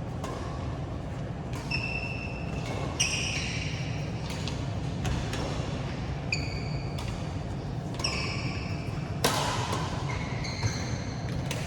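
Badminton rally in a large hall: sharp racket hits on the shuttlecock every second or two, the loudest about nine seconds in, with short high squeaks of shoes on the court floor between them. A steady low hum runs underneath.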